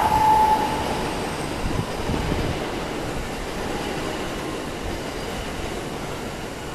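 E5 and E6 series Shinkansen coupled train running away after departure, its rushing rail noise steadily fading as it recedes. A high whine dies out within the first second.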